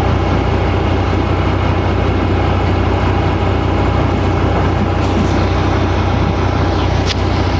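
Heavy diesel engine running steadily at a low idle, a constant low hum with a few faint ticks.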